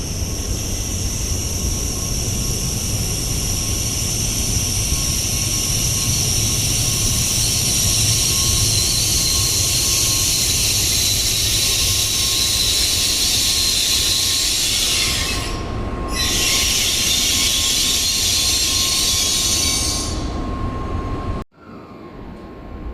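Sanyo Shinkansen bullet train running along the platform: a loud, steady high-pitched hiss and squeal over a low rumble. It breaks off briefly about 16 seconds in, fades near 20 seconds, and cuts off abruptly shortly after.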